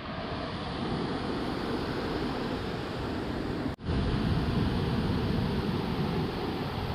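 Steady rushing of a waterfall's water, with a brief sharp break near the middle.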